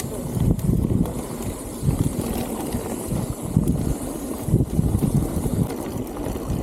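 Strong wind buffeting the microphone during a bicycle ride: a loud, gusty low rumble that swells and dips every second or so.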